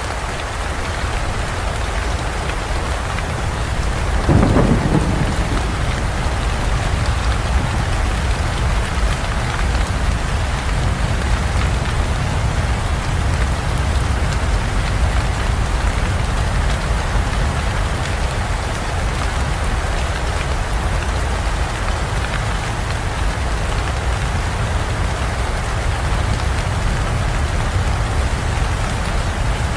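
Heavy rain falling steadily, with a deep rumble of thunder underneath throughout. A sudden thunderclap comes about four seconds in and fades.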